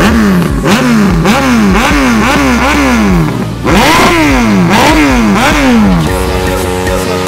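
Superbike engine revved in a quick series of throttle blips, each a sharp rise in pitch falling back, about twice a second; the revving stops about six seconds in.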